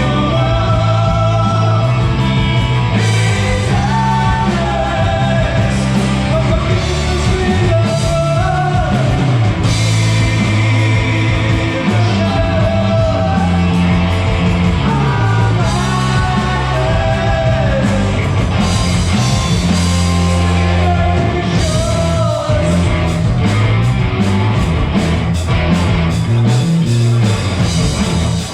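Live rock band playing loudly: guitars, bass and drums under a wavering lead melody line, with the cymbal strikes coming thicker near the end.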